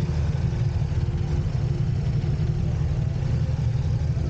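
Superbike engine idling: a steady low rumble through the exhaust.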